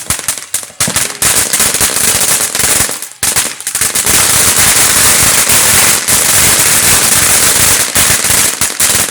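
Firecrackers going off in a rapid string of loud pops. The pops thin out briefly about three seconds in, then run together into a dense, near-continuous crackle for about five seconds and stop abruptly.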